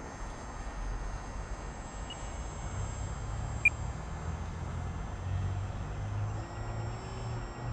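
Faint, steady high whine of an electric RC model airplane's motor in flight, over a low rumble of wind on the microphone. A short, sharp beep sounds about three and a half seconds in.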